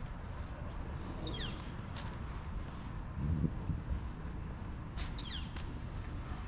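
Outdoor ambience over a steady low rumble: a constant high-pitched insect drone, and a short falling bird call that comes twice. A brief louder low sound comes about three seconds in.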